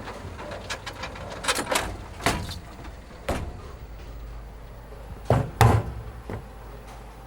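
A series of sharp knocks or bangs at irregular intervals, about seven in all, the loudest a pair in quick succession a little past the middle, over a steady low hum.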